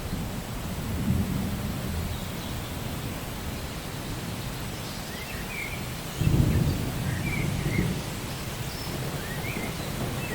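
Steady rain with rolls of thunder: a low rumble about a second in, then a louder clap-like rumble starting about six seconds in and fading over a second or two.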